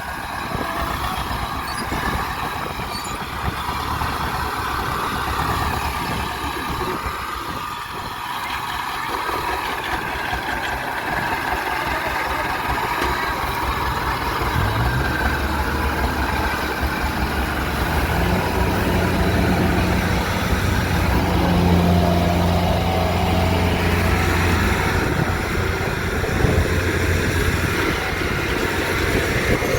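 Kubota DC70 combine harvester's diesel engine running steadily, working under load. About halfway through, a deeper steady hum comes in and grows slightly louder.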